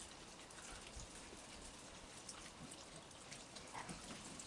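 Light rain falling, a faint patter of many small drops.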